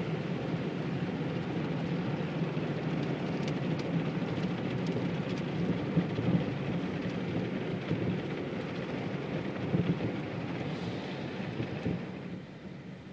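Automatic car wash spraying and scrubbing the car, heard from inside the cabin as a steady rushing, drumming noise with scattered small knocks. It drops off noticeably near the end.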